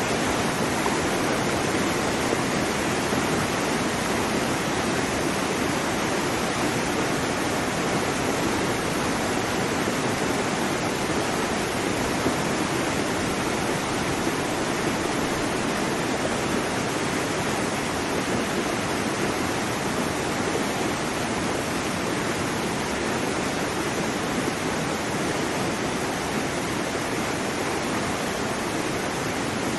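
A waterfall's water falling and crashing in a steady, unbroken rush.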